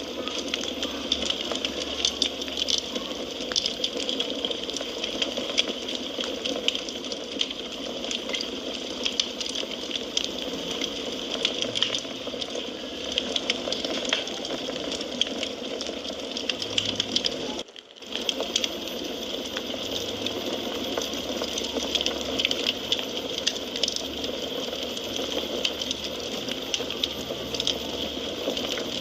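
Wood fire crackling steadily: dense small pops and snaps over a soft hiss, with the sound briefly dropping out about two-thirds of the way through.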